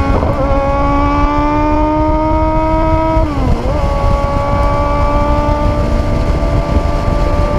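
Lotus Seven's engine running hard under load on track, its pitch creeping slowly up, with a brief dip and recovery about three and a half seconds in, over a constant low rumble.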